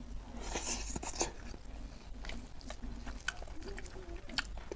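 Close-miked wet chewing and lip smacking as a man eats curried pork leg with rice, with irregular sharp mouth smacks.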